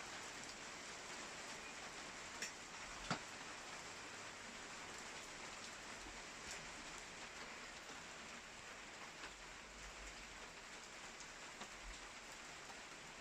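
Rain falling steadily, a soft even hiss, with occasional sharper drops striking a surface; two distinct ticks come about two and three seconds in.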